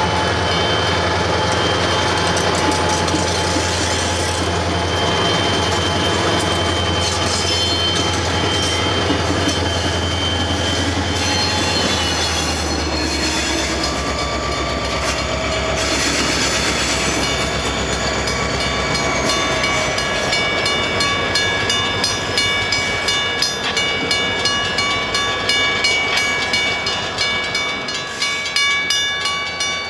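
EMD diesel locomotives of a freight train passing close by at a grade crossing, their engines running with a deep, steady drone that fades out about halfway through as they move off. A grade-crossing bell rings steadily in evenly repeated strokes, standing out clearly in the second half.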